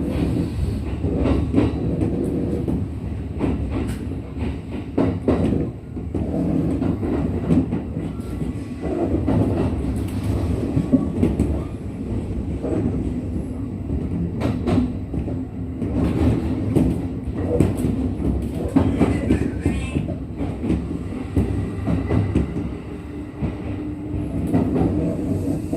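Kintetsu 1233-series electric train, set VE46, heard from inside the car while running: a steady rumble of wheels on rail with repeated clicks over the rail joints. This set is known to its recordist for an abnormal running noise.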